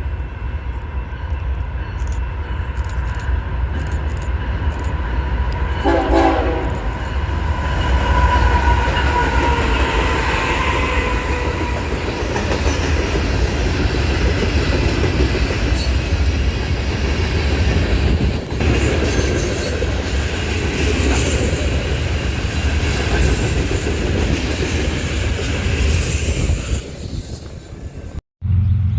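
A train passing close by: low, steady diesel rumble and wheels clacking over the rails. A multi-tone train horn sounds through roughly the first ten seconds.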